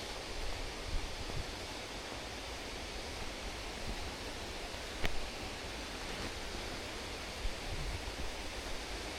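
Steady rush of running water from a snowmelt-swollen stream or waterfall, with a low rumble and a few soft knocks, the sharpest one about five seconds in.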